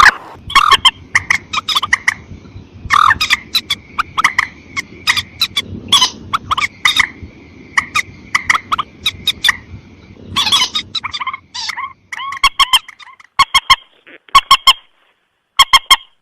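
Bird-trapping lure recording of a mandar sawah, a rice-field rail, calling: loud, short, sharp calls repeated in quick clusters, some running into a held higher note. A low background rumble lies under the calls for the first ten seconds or so.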